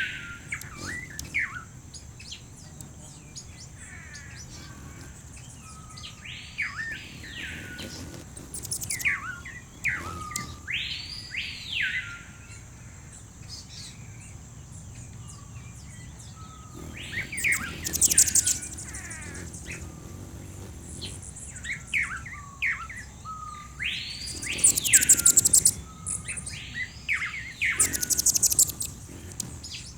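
Bird-song ambiance: one bird repeats an arched whistled call that sweeps up and back down every few seconds. Short, very high buzzy trills from other birds come in between, over a steady high whine.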